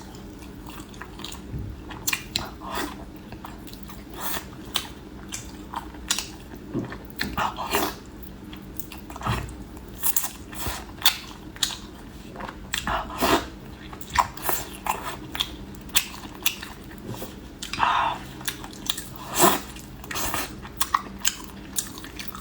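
Chewing and biting into a fatty pork knuckle, with irregular mouth smacks and clicks, a few a second.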